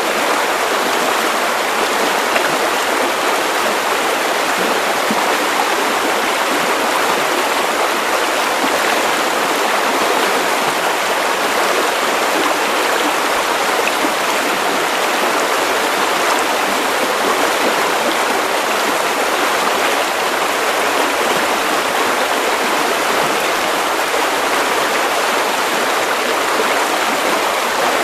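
Steady white noise: an even, unchanging hiss with little deep bass, at a constant level.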